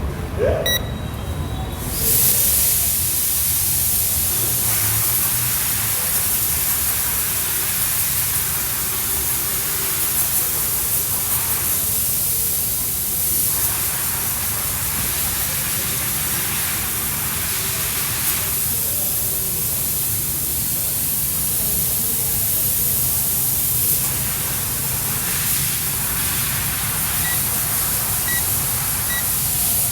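Steady loud hiss of pressurised gas escaping, starting suddenly about two seconds in and holding without a break. Faint short electronic beeps sound near the start and again near the end.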